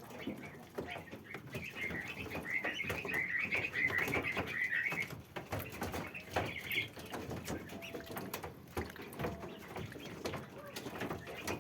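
Muscovy ducklings peeping in a rapid run of high chirps for a few seconds, then once more briefly, over constant light clicking and rustling.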